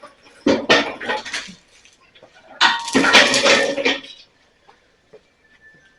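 Metal clanking and rattling in two bursts, the second longer, followed by a few faint clicks.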